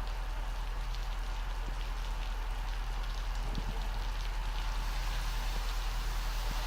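Rollover truck wash at work on a tanker, its rotating side brushes and water spray giving a steady rain-like patter of water on the tank, over a constant low hum.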